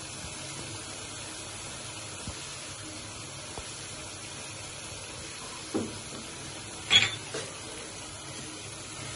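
Grated-carrot halwa cooking in ghee in a wok, giving a steady soft sizzle and hiss as crumbled khoya is dropped on, with two brief knocks about six and seven seconds in.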